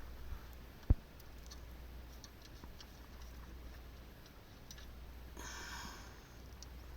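A single sharp thump about a second in, with scattered faint clicks and a brief rustle near the end, over a low steady hum.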